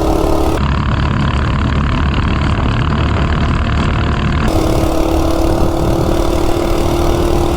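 Coleman RSV minibike's 196cc single-cylinder four-stroke engine running steadily under load at speed, mixed with wind noise. The sound shifts in character about half a second in and again around four and a half seconds in.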